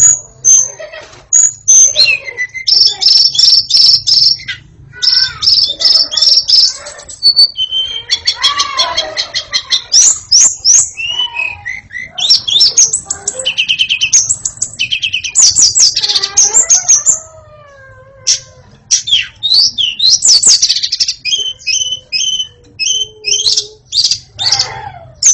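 White-rumped shama singing a loud, varied song of whistles, rapid trills and quick rising and falling notes in phrase after phrase, with a short pause about three-quarters of the way through.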